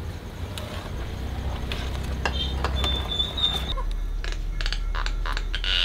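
Birds calling over a low steady hum: thin high whistles held for about a second, then sharp clicks and a short high chirp near the end.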